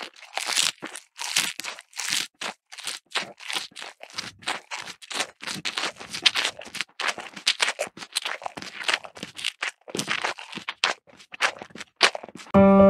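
Hand work on craft material for a miniature model: a quick, uneven run of short scratchy strokes, about three a second, with a few brief pauses. Piano music comes in near the end.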